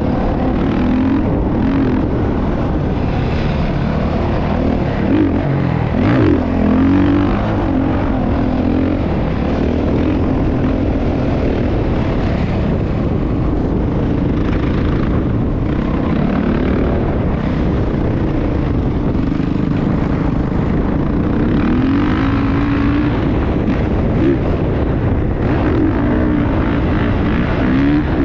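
Motocross dirt bike engine running, its pitch rising and falling with the throttle over a steady low rumble.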